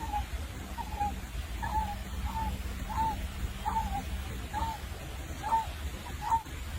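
A young bird calling for food, giving short down-slurred calls over and over, about one every 0.7 seconds, over a low rumble.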